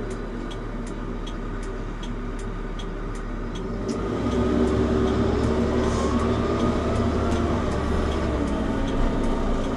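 JCB 3CX Pro backhoe loader's diesel engine running as the machine drives along. The engine gets louder and climbs in pitch from about four seconds in as it speeds up, with a light ticking about three times a second.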